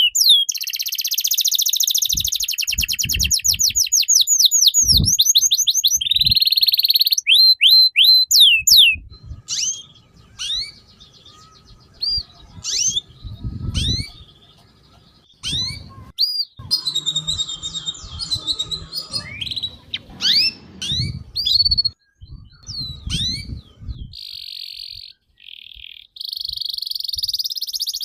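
A songbird singing loudly. It opens with fast runs of sweeping high notes and a rapid trill, then breaks into scattered, varied chirps and calls, with a fast chatter returning near the end. Low thumps and rumbling sound beneath parts of the song.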